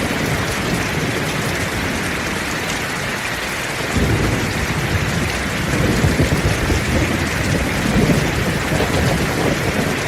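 Heavy rain pouring steadily, with a low rumble of thunder that rolls in about four seconds in and keeps surging unevenly.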